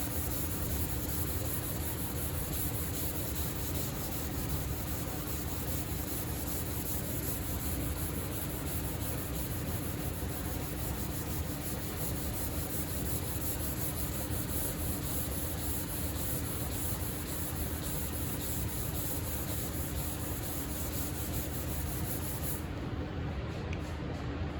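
Steady sanding of primer-surfacer on a car body panel with film-backed sandpaper, a continuous rubbing hiss; the hiss's highest part cuts off about two seconds before the end.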